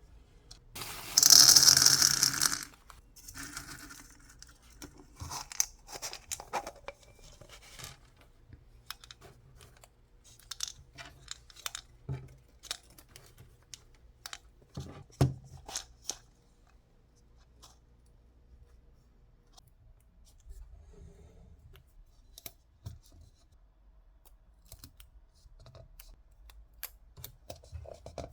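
A short, loud ripping sound about a second in, like something being torn, then scattered small clicks and rustles of objects being handled.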